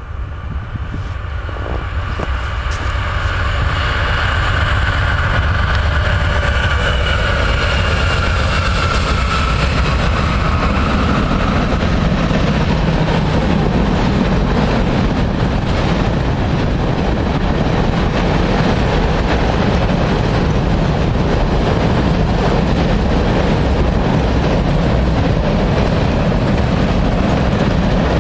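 Norfolk Southern freight train approaching and passing: the diesel locomotives grow louder over the first few seconds and go by with a high whine, then a long string of loaded tank cars rolls past with a steady rumble of wheels on rail.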